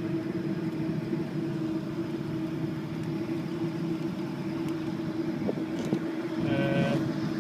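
Steady machine hum with a constant low tone over a running hiss.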